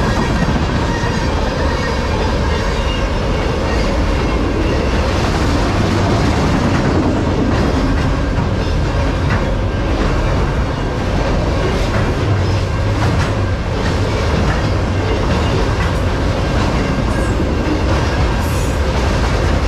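Freight train of tank cars and autorack cars rolling past: a loud, steady rumble of steel wheels on rail with scattered clacks and clicks, and a short high wheel squeal near the end.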